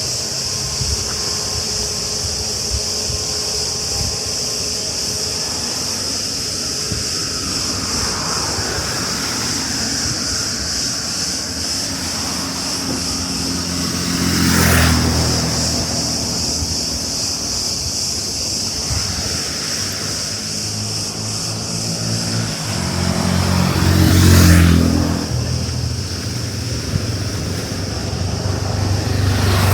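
Cicadas buzzing in a steady, high chorus throughout. Motor vehicles drive past twice, louder as each goes by, about halfway through and again near the end.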